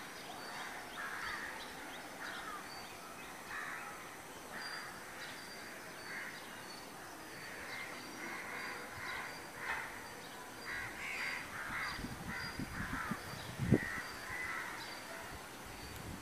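Birds calling over and over, several at once, with short high peeps repeating through it. Near the end come low rumbling bumps and one sharp thump, the loudest sound.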